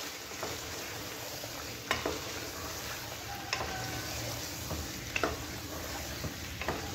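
Chicken pieces sizzling as they fry in oil and spice paste in a pot, being browned in the masala, with a utensil stirring and knocking against the pot about four times.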